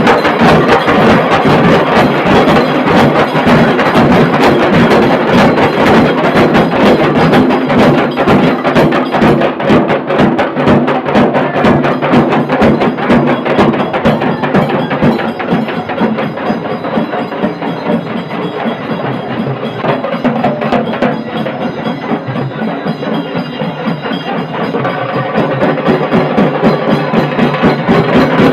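Dhol-tasha band playing: tasha drums beaten with sticks in a fast, dense rhythm over the dhol. The playing eases off in the middle and picks up again near the end.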